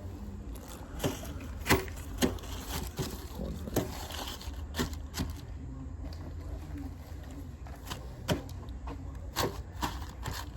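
Small metal parts and tools clicking and clattering as they are picked out of a toolbox drawer and set down, about a dozen irregular knocks over a steady low hum.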